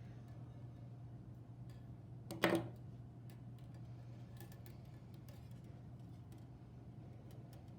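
Scattered light ticks and one louder clack about two and a half seconds in, over a steady low hum.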